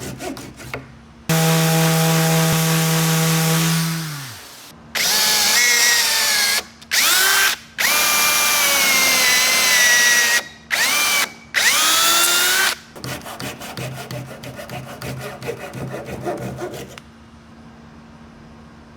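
Rhythmic hand-saw strokes in wood. Then a power tool motor runs steadily and spins down. Next a drill runs in several loud bursts, its pitch rising as each starts, and the rhythmic sawing strokes come back near the end.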